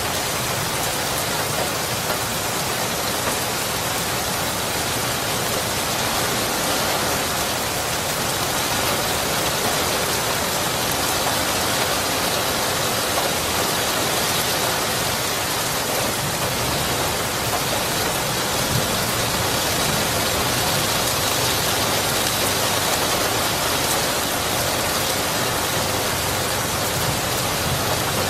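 Steady rain falling, a dense, even hiss of rain on surfaces with no break.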